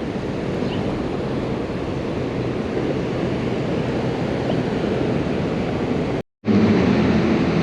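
Steady rushing of water pouring over a low-head river dam. A brief cut comes near the end, after which the rush carries on with a steady low hum added.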